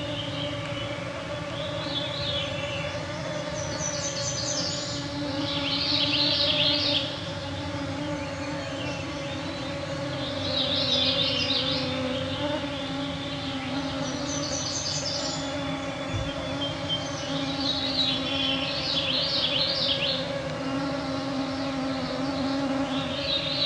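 Swarming mosquitoes whining steadily close to the microphones, with a songbird singing short phrases about every four to five seconds over them.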